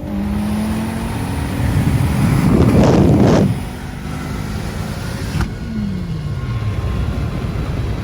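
Car engine running with a steady drone, heard from inside a moving car; a loud rushing swell builds about two seconds in and cuts off around three and a half seconds, then an engine note falls in pitch.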